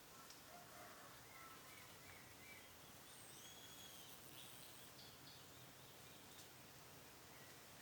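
Faint outdoor background with distant birds calling: a few short chirps in the first two seconds and a call that rises and falls about halfway through.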